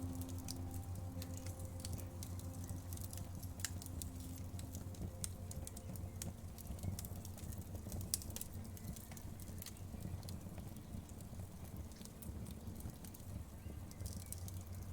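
Fireplace crackling: irregular sharp pops and snaps over a low steady rumble of the fire. A few soft held music tones fade out in the first few seconds.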